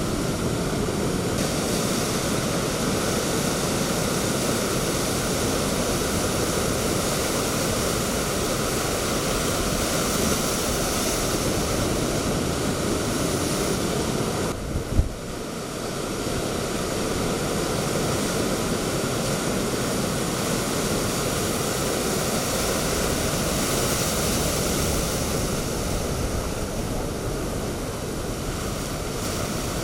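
Typhoon wind blowing hard over pounding storm surf, a dense, steady noise. About halfway through it dips briefly around a single sharp thump, then resumes as before.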